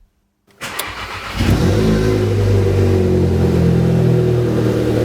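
Volkswagen GTI's 1.8 TSI four-cylinder turbo engine through an aftermarket custom exhaust starting up: a short crank, then it catches with a flare of revs about a second in and settles to a steady, loud running note.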